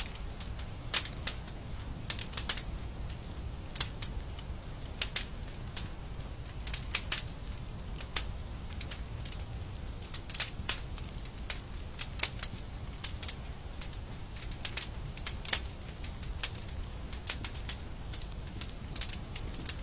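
Wood fire crackling in a fireplace: irregular sharp pops and snaps, sometimes several in quick succession, over a steady low rumble.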